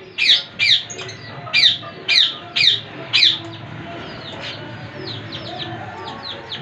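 Caged pet parrots in an aviary calling: loud, short, shrill calls that fall in pitch, about two a second, for the first three seconds or so, then fainter, quicker chirping from the flock.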